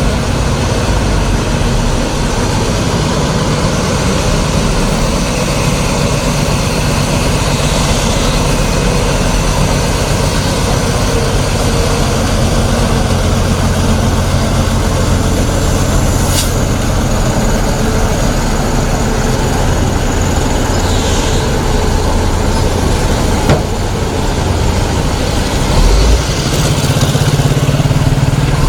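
Loaded heavy cargo trucks' engines running with a steady low drone. There is a sharp click about 16 seconds in.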